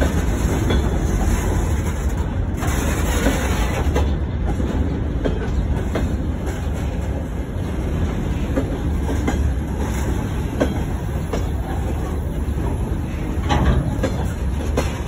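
Open gondola freight wagons rolling past close by: a steady rumble of wheels on rail, with scattered clicks as the wheelsets cross rail joints.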